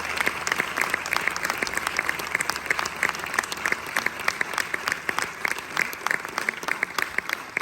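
Audience applauding: a dense run of many hands clapping, easing off slightly near the end.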